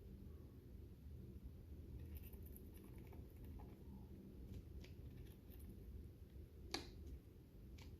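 Lovebirds cracking and chewing seeds with their beaks: faint, scattered small clicks over a low hum, with one sharper click near the end.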